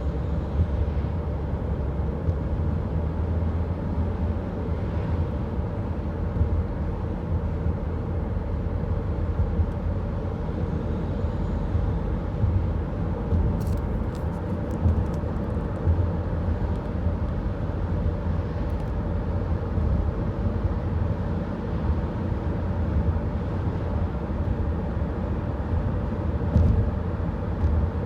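A truck engine running steadily, a constant low rumble with a steady drone above it, with a few sharp clicks about fourteen seconds in.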